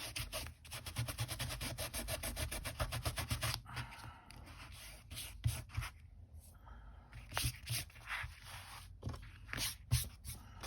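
Rapid, even rubbing strokes on paper for about three and a half seconds, then scattered light scrapes and paper-handling sounds.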